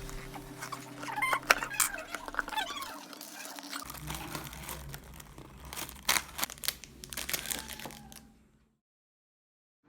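Scattered sharp clicks and crinkling handling sounds, which cut out to silence near the end.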